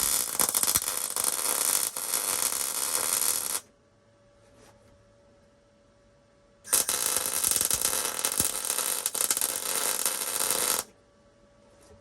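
Wire-feed welder running .025 wire on thin sheet-metal floor-pan patches, laying two weld runs with a steady crackle: the first lasts about three and a half seconds from the start, and the second begins about seven seconds in and runs for about four seconds.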